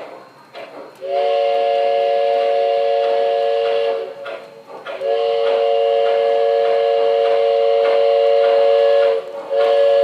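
O-scale model locomotive's electronic sound system playing a multi-tone whistle chord. It gives two long blasts, and a third starts near the end.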